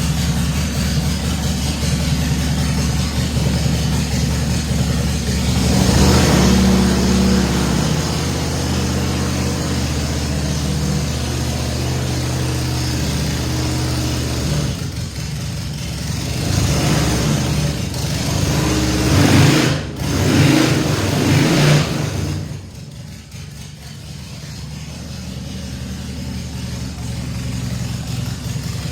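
Harley-Davidson Sportster chopper's V-twin engine running. It is revved about six seconds in and several times between roughly 16 and 22 seconds, then drops to a quieter idle.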